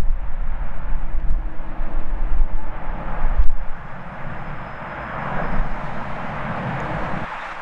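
Strong wind buffeting the microphone in low rumbling gusts, with a knock about three and a half seconds in. In the second half the rushing noise of a departing jet airliner's engines grows.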